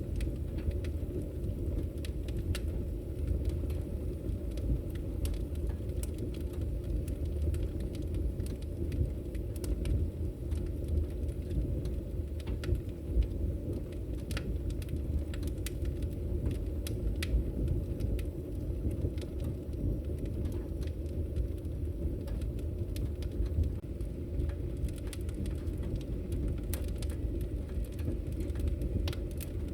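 Wood fire crackling in a fireplace: a steady low rumble of burning with scattered sharp pops and snaps, which come thicker near the end.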